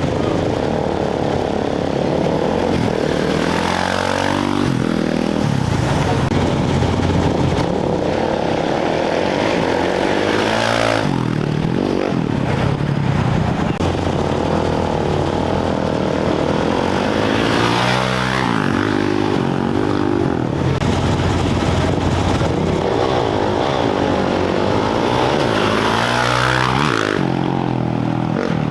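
Off-road racing motorcycles leaving the start line one after another, each engine revving up through the gears as it pulls away, about every seven seconds, over the steady drone of other bike engines.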